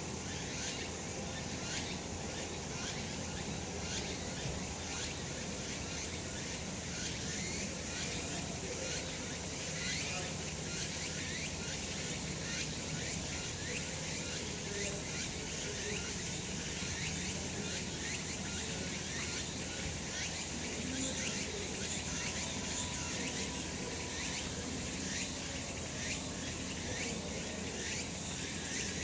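Cicadas calling in a dense chorus: a steady, shrill buzz made of rapid pulses.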